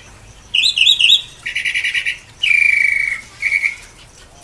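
Birds calling in a series of high chirps. About half a second in comes a quick run of rising notes, then a rapid pulsing trill, then a longer call sliding down in pitch, and a short burst of notes near the end.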